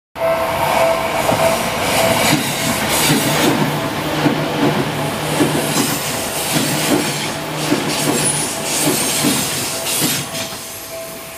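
Seibu 10000-series electric limited express passing close by, its wheels clacking over rail joints in uneven pairs of knocks. A level crossing bell rings steadily underneath, and the train fades slightly near the end.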